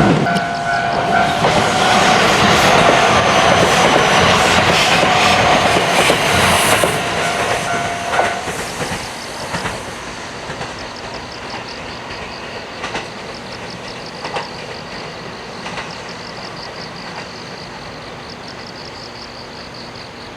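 A train passing at close range: loud running noise with a steady high tone for the first eight seconds or so, then dying away, with a few single wheel clacks over rail joints as it recedes.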